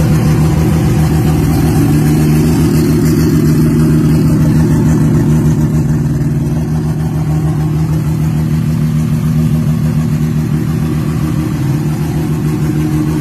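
Toyota Supra drag car's turbocharged inline-six engine idling steadily, with a fast, even exhaust pulse.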